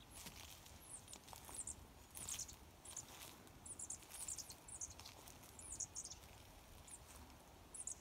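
Small birds chirping: many short, very high-pitched calls, each dropping quickly in pitch, coming in quick clusters throughout.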